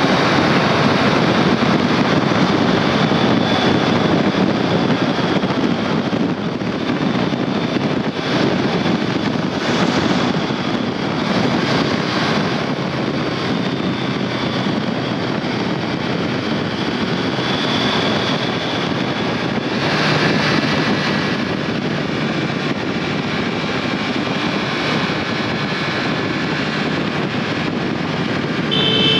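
Triumph Tiger Sport 660's three-cylinder engine and exhaust running at a steady pace while riding, with wind rushing over the microphone.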